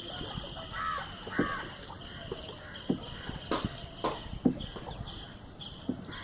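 Crow cawing twice, about a second in, over scattered sharp knocks and clinks.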